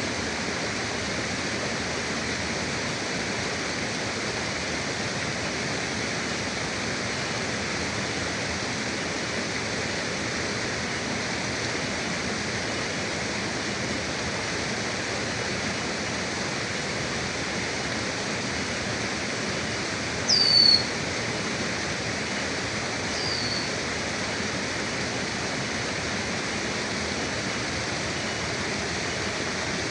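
Steady rushing of a forest river. About two-thirds of the way through, a bird gives two short high calls that slide down in pitch; the first is the loudest sound, the second fainter.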